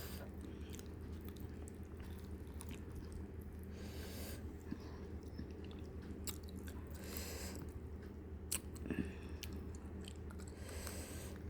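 Close-up chewing and biting of fried fish, with small wet mouth clicks and a short hissy sound about every three to four seconds, over a steady low hum.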